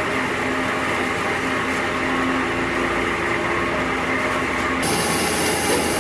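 An electric power tool running steadily with a constant whine, its sound turning brighter and hissier about five seconds in.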